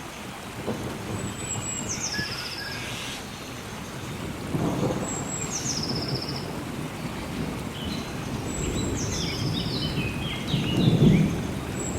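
Rainforest ambience of steady rain with low rolling thunder that swells about halfway through and again, loudest, near the end. Over it a bird repeats a high call that steps down in pitch about every three and a half seconds.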